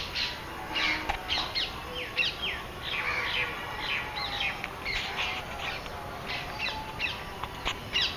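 Several birds chirping and calling in the trees: a dense run of short, quick chirps, many falling in pitch, overlapping one another.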